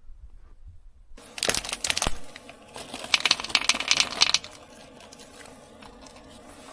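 Two spells of dense crinkling and rustling noise, the first about a second in and lasting about a second, the second about a second and a half long, over a quiet steady background.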